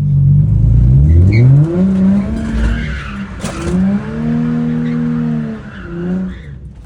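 Infiniti G35's VQ35DE V6 revving hard under acceleration: the engine note climbs steeply, drops, and climbs again to a held high pitch before falling away near the end. A sharp click sounds about halfway through.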